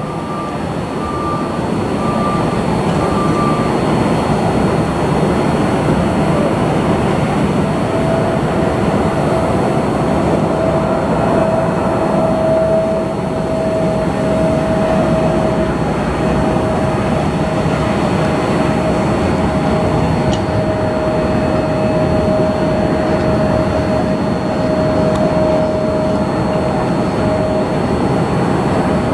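Jet airliner engines running, a loud steady rushing noise that builds over the first couple of seconds, with a steady whine coming in about eight seconds in.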